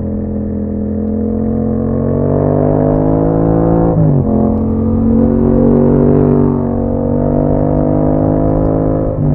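2021 Yamaha MT-07's parallel-twin engine through an Akrapovic exhaust, pulling under throttle with the pitch slowly rising. It shifts up about four seconds in and again near the end, the pitch dropping sharply and then climbing again.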